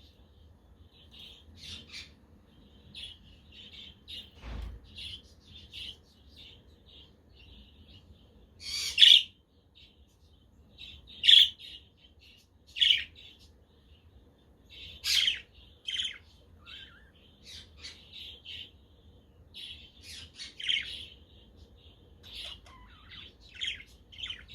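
A flock of budgerigars chirping: a continual run of short chirps, broken by several much louder, sharper calls.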